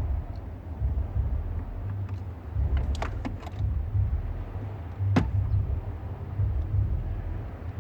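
Small clicks and one sharp click from wiring and plastic dash parts being handled, over a steady low rumble.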